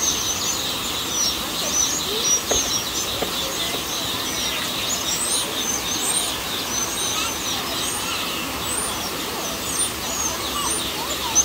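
Many small birds chirping together, a dense chorus of short, high, overlapping calls over a steady background hum.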